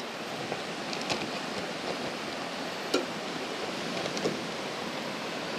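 Fast-running mountain creek, swollen with rising water, rushing steadily, with a few faint clicks.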